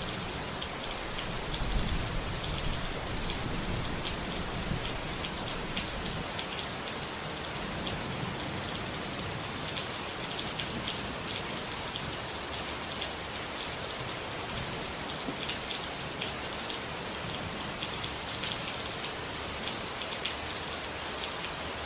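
Steady rain falling, with many small drop ticks over an even hiss. A low rumble underlies the first few seconds and then fades.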